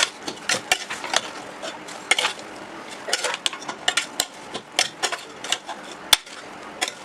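A spoon stirring food in a cooking pot, with irregular clinks and scrapes against the pot, a few each second.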